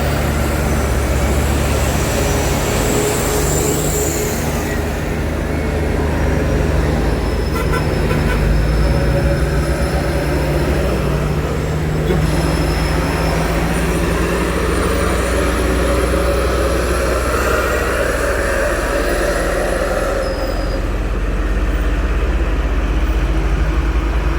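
Heavy diesel truck engine running steadily under load as the truck climbs a muddy incline.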